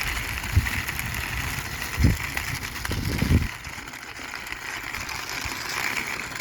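A small plastic toy jeep pushed by hand along a concrete wall, with a few low bumps and knocks about half a second, two seconds and three seconds in, over a steady background hiss.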